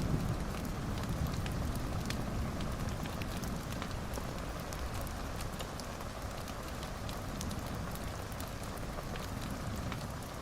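Fireplace crackling, with many small sharp pops scattered over a steady hiss of rain and a low rumble.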